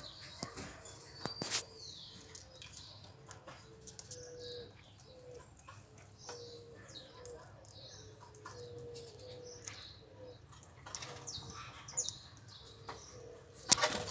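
Parrots eating: scattered sharp clicks and cracks of beaks working food, with brief high chirps in between. The loudest crack comes about a second and a half in, and a quick cluster of clicks comes near the end.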